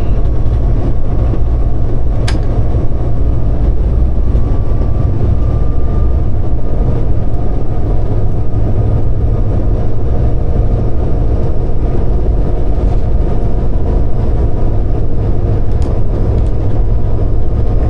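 A train running, heard from inside the driver's cab: a loud, steady low drone of engine and wheels on the rails, with a faint steady whine and one short click about two seconds in.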